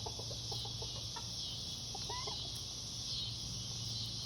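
Backyard chickens clucking softly: a few short clucks at the start and one short, arched call about two seconds in. Under them runs a steady, high chorus of crickets.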